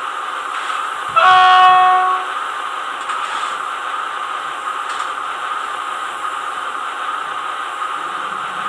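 Sound decoder of a TT-scale BR 106 diesel shunting locomotive model playing its diesel engine sound through a small onboard speaker, with one horn blast about a second in that lasts about a second.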